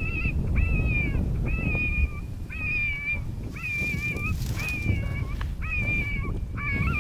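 Electronic predator caller playing a repeated, high whining animal distress cry, about eight even cries a second or so apart, to call in coyotes. Strong wind rumbles on the microphone under it.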